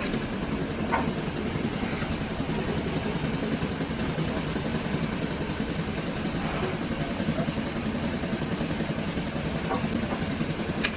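Steady, dense running noise of a hydraulic press machine working on leaf springs, with a sharp knock about a second in.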